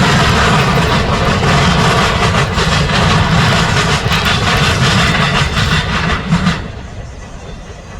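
A train passing close by, its cars rattling and clattering over the rails in a loud, dense rush. It cuts off abruptly about six and a half seconds in, leaving a quieter low rumble.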